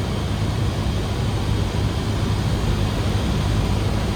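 Cessna 152's four-cylinder Lycoming engine and propeller droning steadily under power on final approach, heard inside the cockpit, with airflow noise.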